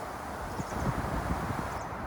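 Rain and strong wind: a steady rushing hiss with an uneven low rumble of wind buffeting the microphone. Faint short high chirps come about half a second in and again near the end.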